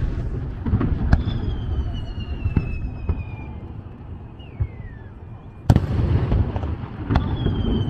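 Japanese aerial fireworks display: sharp bangs of shells bursting, the loudest about six seconds in, over a continuous low rumble and crackle. High whistling tones glide down in pitch after some of the bursts.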